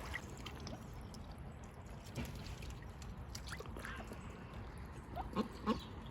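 Ducks splashing and dabbling in water as they wash, with small trickling and dripping sounds and a couple of short soft calls about five and a half seconds in.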